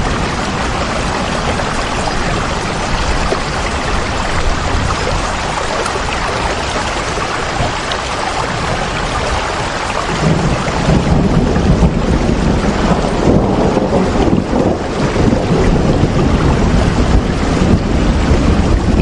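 Steady rain as an even hiss, with a deeper rumble swelling in about halfway through.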